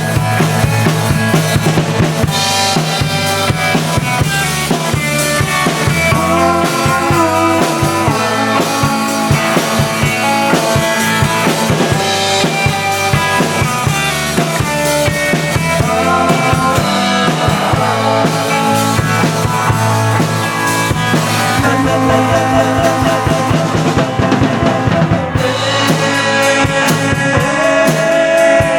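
Live rock band playing a jangly guitar song: drum kit with bass drum, snare and rimshots driving a steady beat under bass and electric guitars.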